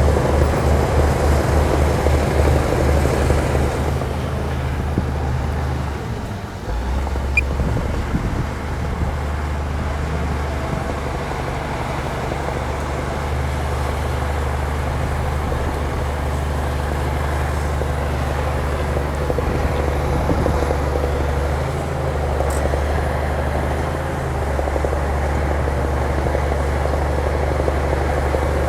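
Diesel engine of a heavy earthmoving machine running steadily, throbbing in the first few seconds and dipping briefly about six seconds in, with a single sharp click shortly after.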